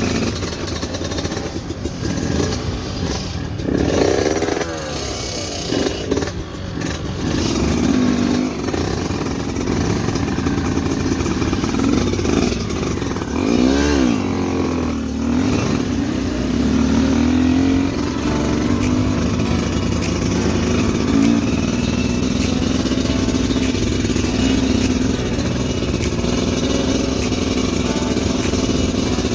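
Motorcycle engine repeatedly revving up and dropping back while climbing a rocky track, with a steady rushing noise underneath.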